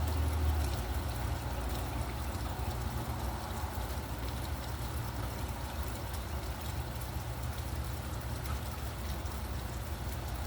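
Steady rain with faint scattered drips, over a low traffic rumble. A deeper rumble fades away about a second in.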